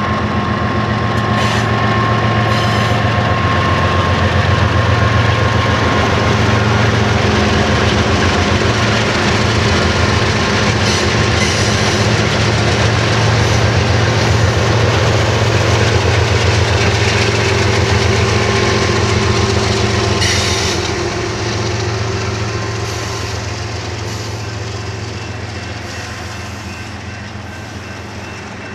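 BNSF freight train passing: the locomotives' diesel engines drone steadily and the steel wheels roll along the rails, with a few sharp clicks. The sound fades over the last several seconds as the train moves away.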